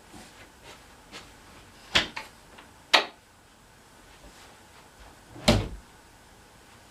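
Household items being lifted and set down with three sharp knocks, the last and heaviest about five and a half seconds in, and light clicks in between.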